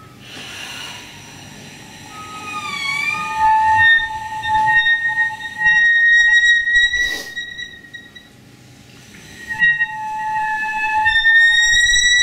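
Wind instrument played through computer processing: long held horn-like tones with slow pitch bends, some bending down and back up, and breathy rushes of air between them. The tones drop away for a moment about 8 s in, then return and slide slowly upward near the end.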